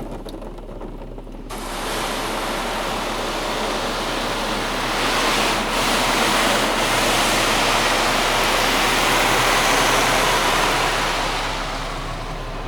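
Mark VII soft-touch car wash spraying water over the car, heard from inside the cabin as a steady rushing hiss. It starts about a second and a half in, grows stronger midway and eases off near the end.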